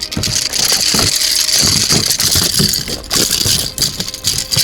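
A small pike thrashing and splashing at the water's surface as it is hauled in and lifted into the boat: a loud, continuous splashing hiss broken by many irregular thumps and knocks, stopping abruptly near the end.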